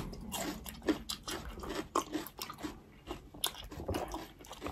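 Close-up mouth sounds of chewing and crunching crisp yellow vegetable slices, a run of irregular crisp crunches.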